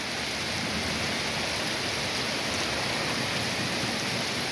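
Heavy thunderstorm rain pouring down, a steady, even hiss.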